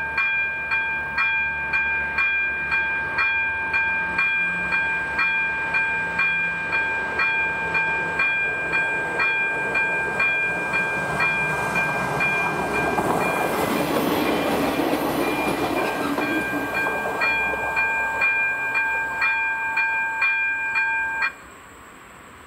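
A steady ringing signal of three tones, pulsing about twice a second, with a rushing noise that swells and fades in the middle. The signal cuts off abruptly near the end, leaving a faint hiss.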